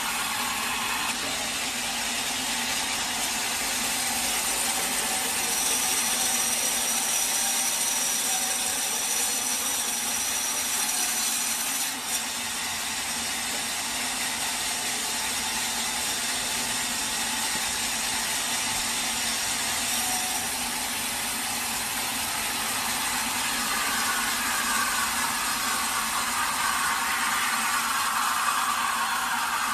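Sawmill saw cutting through teak wood: a steady hiss of the blade in the timber. A thin high whine rises over it for a few seconds about six seconds in, and the sound briefly drops out about twelve seconds in.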